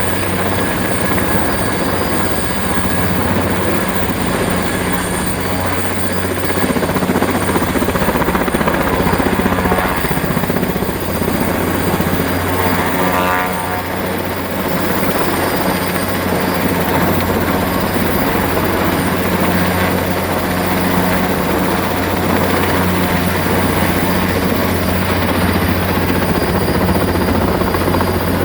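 Erickson S-64 Air-Crane twin-turbine heavy-lift helicopter running loud and steady, with a thin high turbine whine over the rotor noise. The sound wavers briefly about halfway through.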